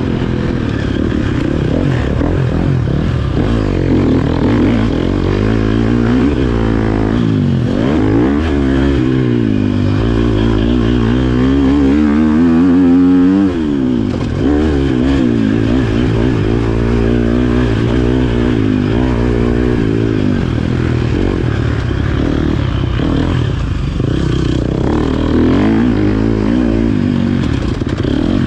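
Motocross bike engine revving hard and falling off again and again as it is ridden around the track, with a long climbing rev about halfway through that cuts off sharply.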